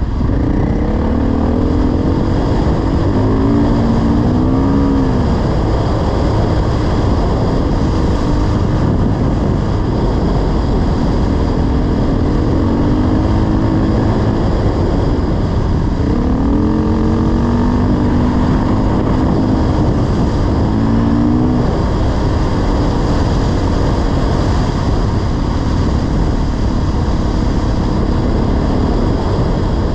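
Dirt bike engine running under way, its pitch rising and falling with the throttle over a constant loud rush of noise.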